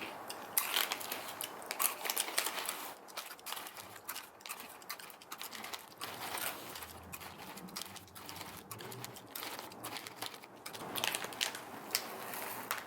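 Close-up chewing of small crunchy snacks: a rapid, irregular run of crisp crunching clicks.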